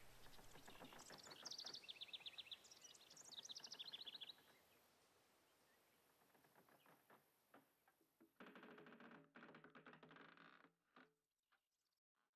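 Birds calling in quick high twittering trills over the first few seconds. After a quiet stretch comes a low, rasping, creak-like pulsing sound lasting about two seconds. Then near silence.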